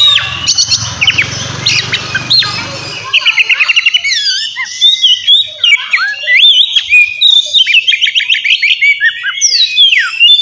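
Oriental magpie-robin (kacer) singing loudly: a varied song of whistled sweeps and fast runs of repeated notes. A low rumble lies underneath for the first three seconds.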